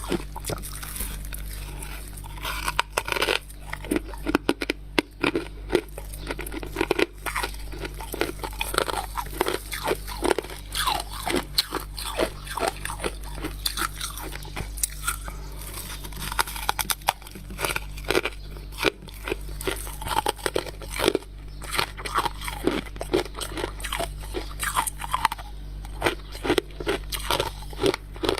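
Close-up biting and chewing of freezer frost scraped from a deep freezer: many irregular crunches, several a second at times, over a steady low hum.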